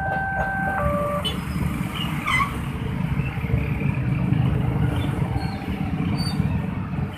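Railway level-crossing warning alarm sounding its two-tone alternating electronic signal, which stops about a second in; after that, a steady rumble of road traffic.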